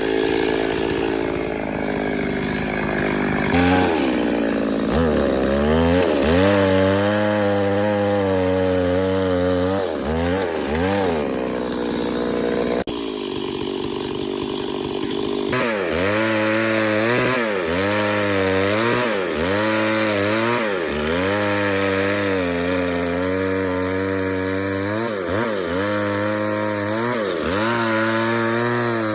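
Chainsaw cutting into wood. The engine's pitch sags and recovers again and again, about once a second, as the chain loads in the cut. It runs more steadily for a few seconds at the start and again about halfway through.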